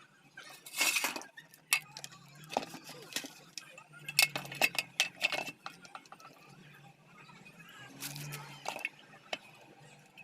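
Small metal parts and tools clinking and knocking as they are handled, in a string of separate sharp clicks with two longer rattling stretches, about a second in and near the end.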